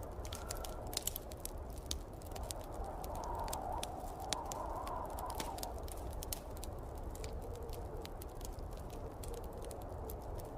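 Fireplace wood fire crackling with many small, sharp pops, over the steady rush of snowstorm wind that swells for a few seconds around the middle.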